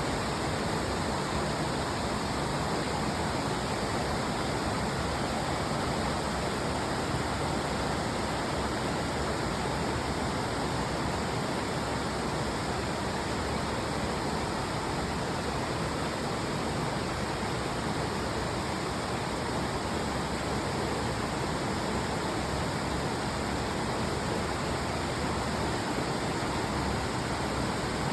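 Arasawa Ōtaki waterfall's water falling, a steady, unbroken rush of noise.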